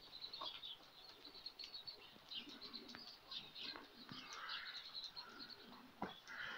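Faint, rapid chirping of small birds, many short high chirps in quick succession, with a few softer lower sounds underneath.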